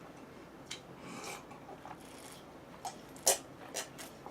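Quiet eating sounds: rubbing and rasping of food being handled and chewed, with a few short sharp clicks, the loudest a little past three seconds in.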